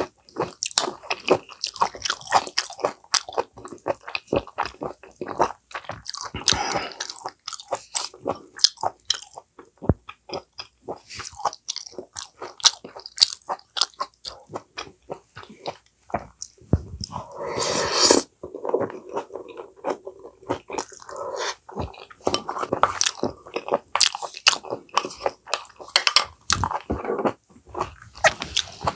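Close-miked chewing and crunching of food in a person's mouth: a steady run of short wet clicks and crunches, with one louder, longer noise lasting about a second around two-thirds of the way through.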